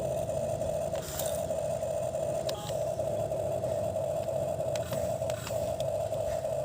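Toy excavator's small electric motor whining steadily, with a low rattle beneath it, briefly dipping a few times, and faint scattered clicks and scrapes from the digging.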